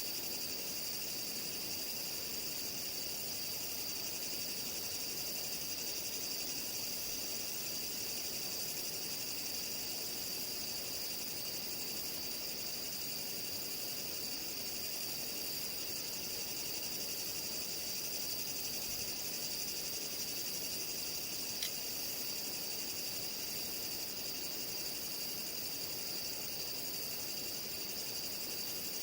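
Night insects such as crickets chirring steadily, with a higher, pulsed chirp repeating at an even pace over the top. A single faint click about three quarters of the way through.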